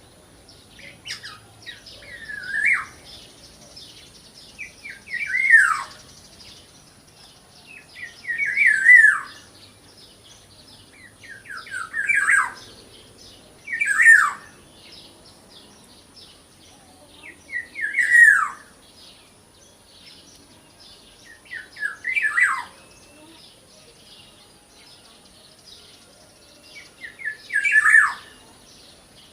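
Black-naped oriole (kepodang) calling over and over, about eight times, each call a few quick notes ending in a loud downward-slurred squawk. Fainter chirping runs between the calls, with a thin steady high whine behind.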